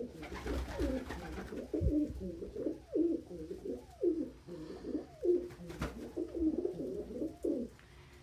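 Domestic pigeons cooing in a loft: a steady run of low, rolling coos from several birds, some repeating about once a second.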